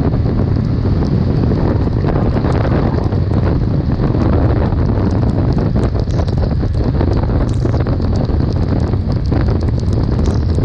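Heavy wind noise on the microphone while riding: a steady low rumble with scattered small ticks throughout.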